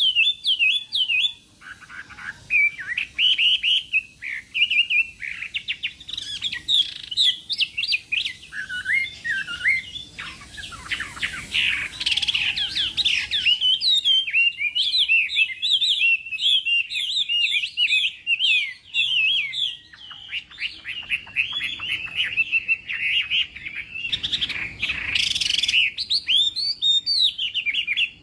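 Chinese hwamei singing a long, unbroken song of quick rising and falling whistled notes, with two harsher, scratchy passages, one near the middle and one near the end.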